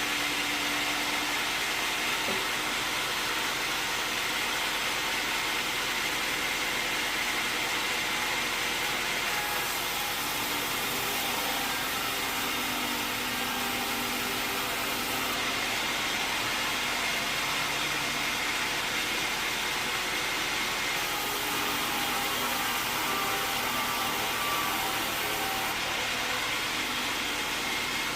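Sawmill machinery running steadily: a continuous mechanical noise with a faint, steady high whine, its hiss swelling and easing every few seconds.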